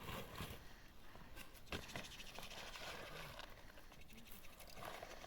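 Livestock moving about: faint scattered clicks and rustling.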